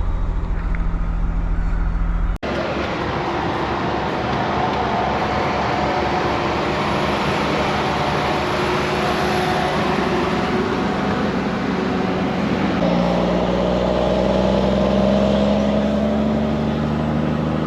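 Straight-piped Cummins M11 straight-six diesel of an ERF EC11 truck running under way, a steady drone with heavy road and wind noise. The sound drops out for an instant about two seconds in, and over the last few seconds the engine note climbs steadily as the truck pulls.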